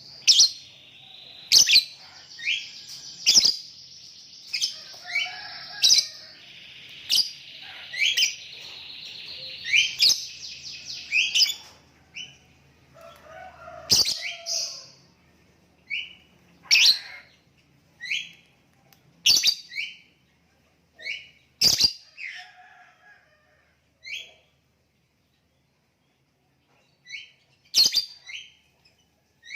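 Lovebird calling: a long, rapid chattering trill for about the first twelve seconds, with loud shrill chirps cutting through it. After that come single shrill chirps spaced out with pauses, and a short silent stretch near the end.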